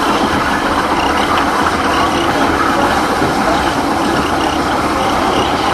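Steady running noise of a moving passenger train heard from aboard: wheels and carriage rumbling along the track at an even pace.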